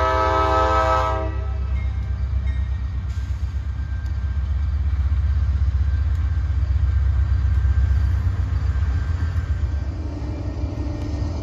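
Diesel freight locomotive's air horn sounding a chord until about a second in, then the low, steady rumble of the train passing over the crossing; the horn comes back faintly near the end.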